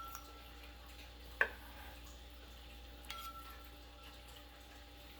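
Kitchen utensils knocking lightly against dishes three times, the loudest about a second and a half in, two of the knocks ringing briefly, over a faint steady hum.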